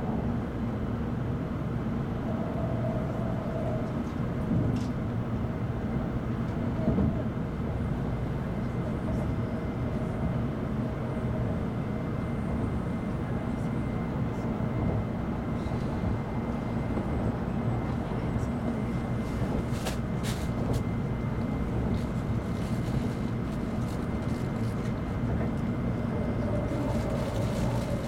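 N700 series Shinkansen running, heard from inside the passenger cabin: a steady rumble of wheels and rails with a faint steady whine above it and a few light clicks about two-thirds of the way through.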